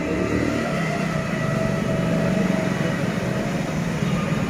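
A steady mechanical rumble, like a running engine or machine, holding level throughout with no breaks.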